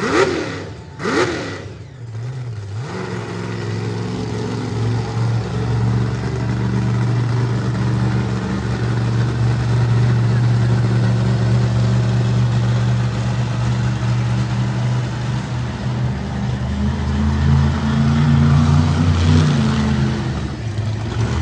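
Monster truck engine running with a steady low drone, swelling slightly near the end.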